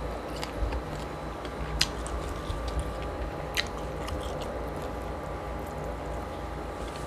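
Close-miked chewing of soft food (braised pork and rice), with scattered sharp mouth clicks, the two loudest about two seconds and three and a half seconds in.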